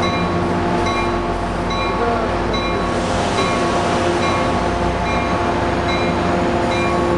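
F40PHM-2C diesel locomotive running steadily while standing with its train, with a constant drone. A bell rings over it in a steady series of strikes, a little more than one a second.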